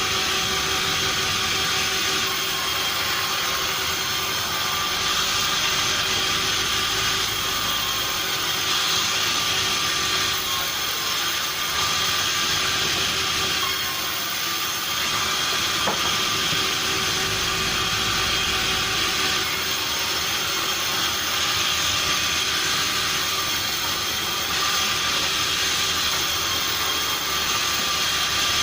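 Sawmill machinery running steadily: a constant, loud hiss with a few held tones and no pauses.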